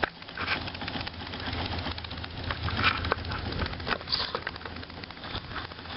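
Fleischmann toy live steam engine running with an irregular crackling, spitting hiss: the overfilled boiler is sending boiling water out with the steam.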